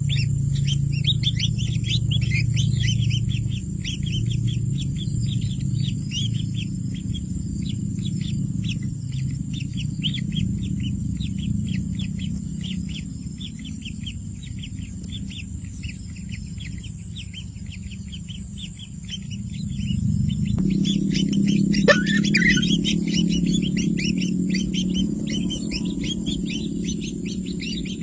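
Many small birds chirping in quick, overlapping bursts, like a flock, over a steady low hum. About 21 s in the background hum changes abruptly, and a single sliding call rises and falls just after.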